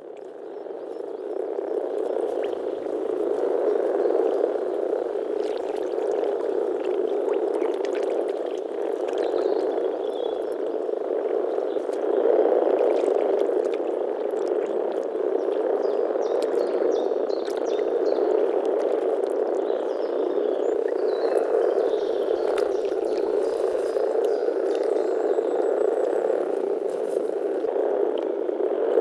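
A breeding chorus of many common frogs (Rana temporaria) calling together, making a dense, continuous low mass of overlapping croaks. It fades in over the first couple of seconds.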